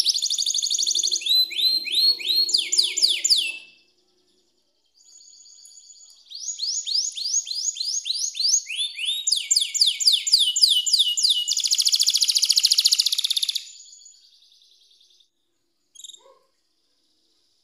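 Domestic canary singing: fast trills and rows of quick downward-sliding notes, which break off for about two seconds. Then comes another run of sliding notes and a dense buzzy trill that fades out, followed by a single short chirp.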